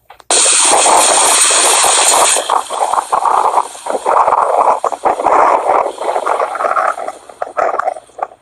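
Rushing noise of a moving vehicle ride, probably wind buffeting the microphone, starting suddenly. It is very bright and hissy for the first two seconds, then rough and fluctuating.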